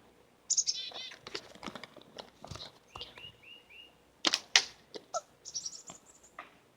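Small birds chirping and calling: quick high chirps early on, a run of three or four short clear notes about three seconds in, and a high trill near the end. Two sharp clicks a little after four seconds.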